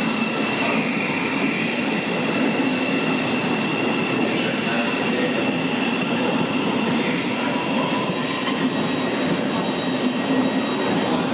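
Thameslink electric train running on the rails: a steady, even rumble with a thin high tone over it for the first several seconds and a few faint clicks.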